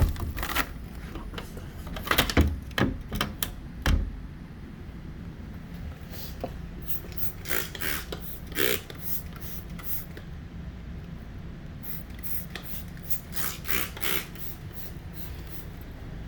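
Handling of an RV window: irregular sharp clicks and knocks, loudest in the first few seconds, then short rubbing scrapes, over a steady low hum.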